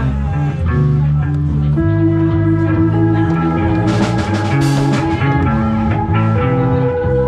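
Live band playing amplified electric guitar over a bass line, an instrumental passage of held chords and shifting bass notes.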